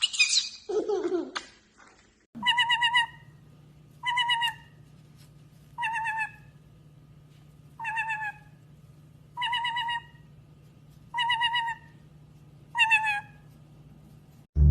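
A parrot repeats the same short trilled call eight times, about once every second and a half, over a steady low hum. A couple of brief squawks come before it.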